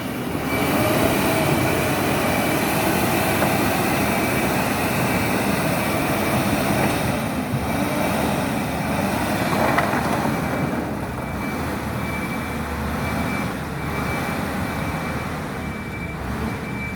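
Heavy machinery running: a diesel engine working steadily under load, with a faint steady high whine, easing off slightly near the end.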